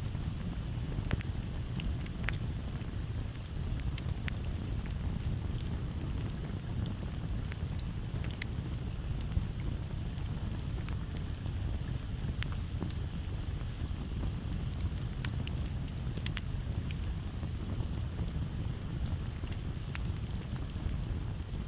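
Campfire crackling, with sharp irregular pops over a low steady rumble. Crickets chirr steadily in the background.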